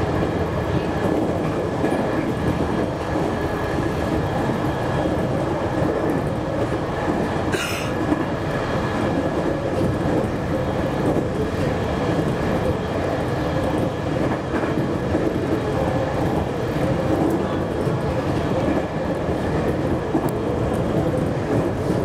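JR Kyushu 813 series electric train running at speed, heard from inside behind the cab. There is a steady rumble of wheels on rail with a steady high tone over it, and one brief sharp click about seven and a half seconds in.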